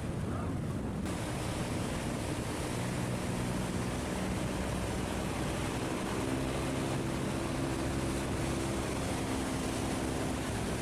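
A boat's engine running steadily, heard over a steady rush of fast-flowing water and wind.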